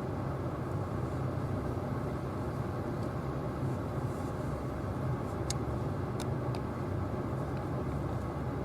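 Steady low rumble of a running car or truck engine, even throughout, with a few faint clicks.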